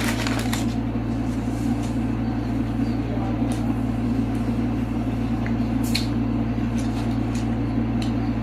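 A steady low machine hum, like an appliance running, with a few soft clicks.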